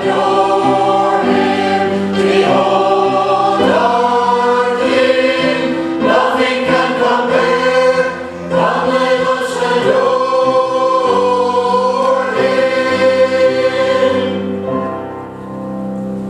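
Church choir singing a hymn-like introit in sustained chords, the last chord held and fading away near the end.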